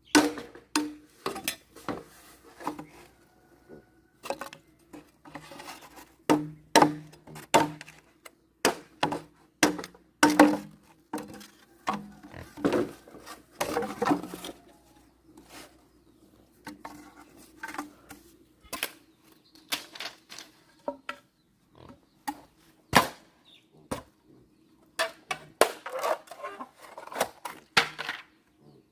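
An irregular clatter of sharp knocks and clinks as hard objects are handled and set down, over a faint steady hum.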